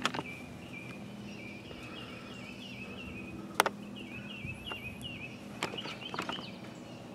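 A small bird chirping in a quick run of short, high repeated notes, with a few sharp clicks (the loudest about three and a half seconds in) over a faint low steady hum.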